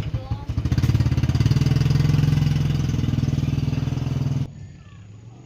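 A small engine running steadily with a fast, even pulse, then stopping abruptly about four and a half seconds in.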